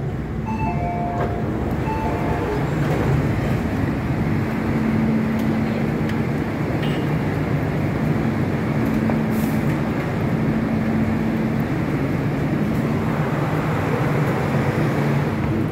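MTR metro train running along a station platform, a steady rumble with a constant electric motor hum. There are a few short beeps in the first couple of seconds.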